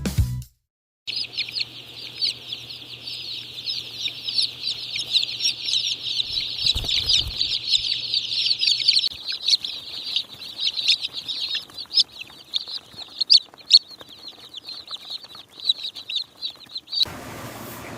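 A flock of young chicks peeping together, a dense high-pitched chorus of rapid overlapping chirps. Near the end it cuts off suddenly to a steady noise.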